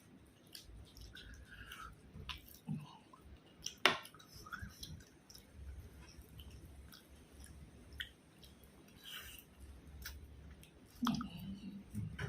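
A person chewing food close to the microphone, with scattered soft clicks and wet mouth noises and one sharper click about four seconds in.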